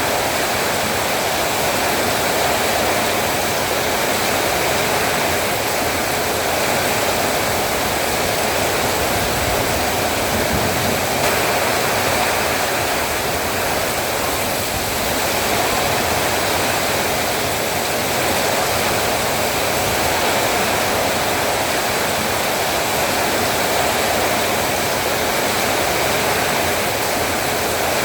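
Heavy rain falling steadily, a dense even hiss and patter with no breaks.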